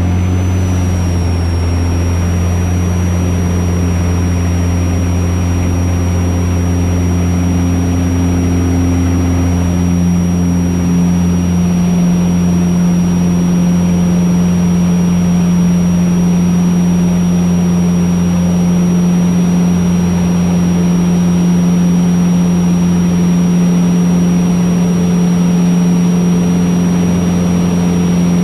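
Van's RV-8 light aircraft's piston engine and propeller running steadily at takeoff power during the takeoff and climb-out, with a thin steady high whine over it.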